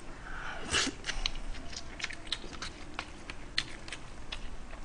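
A man chewing and biting food close to the microphone, with many short sharp clicks from the mouth and from chopsticks picking food out of disposable takeaway bowls; the loudest comes a little under a second in.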